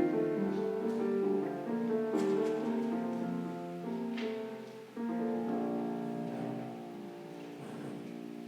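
Piano music: chords moving at a slow pace, then a chord struck about five seconds in and left to ring and fade away.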